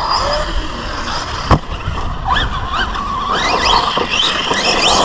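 Team Associated Rival MT10 RC monster truck's electric motor whining, its pitch repeatedly rising and falling with quick bursts of throttle, over a haze of tyre and drivetrain noise. A sharp thud comes about one and a half seconds in.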